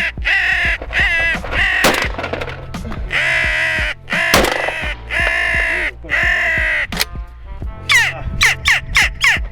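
Crow caws: a string of long, harsh calls, followed near the end by a quick run of short, falling calls, over a steady low music bed.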